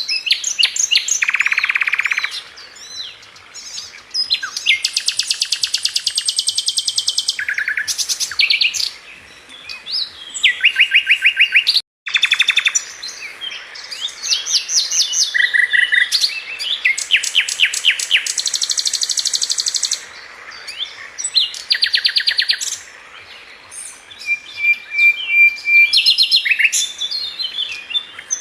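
A Sikatan London flycatcher singing one phrase after another of rapid trills and fast repeated notes, separated by short pauses. The sound cuts out for an instant about twelve seconds in.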